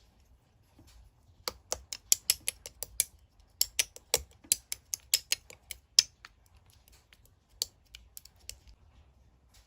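Hands pressing and squeezing slime, giving a run of sharp clicking pops, about four or five a second, that thin out to a few scattered clicks after about six seconds.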